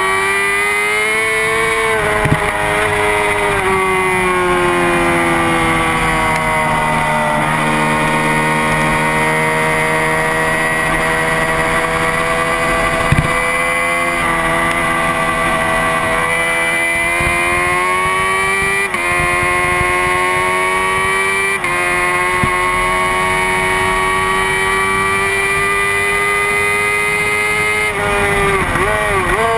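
Honda CBR600RR's inline-four engine at high revs on track, its pitch climbing and falling through the gears. It drops sharply in pitch a few times, around gear changes.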